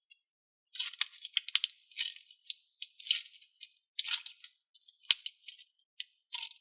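Stiff Hypercolor thinking putty being squeezed and pulled in the hands, giving irregular bursts of crackling and popping clicks.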